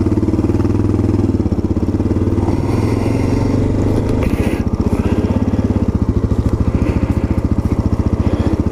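Honda XR650L's single-cylinder four-stroke engine running steadily at low speed, its exhaust pulses coming in an even beat.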